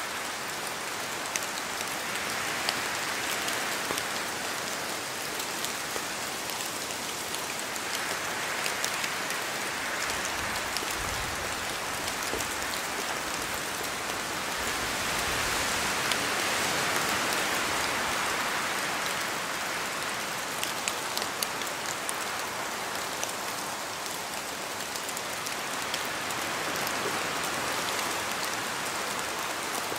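Steady rain in a forest, with scattered sharper drops falling from the trees. Wind makes the sound swell and ease in slow waves, loudest about halfway through.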